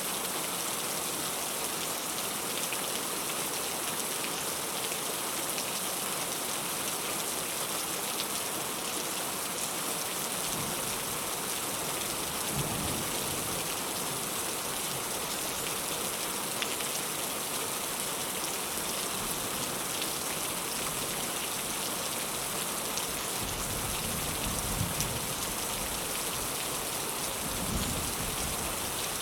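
Heavy rain falling steadily with an even hiss. Low rumbles of distant thunder swell up a few times in the second half.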